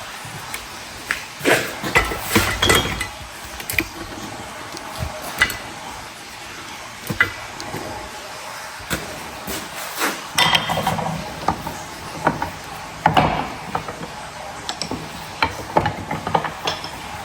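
Hand tools and metal parts clinking, clicking and knocking at irregular intervals while a pressure-washer part is worked on and taken apart, busiest about two seconds in and again past the middle.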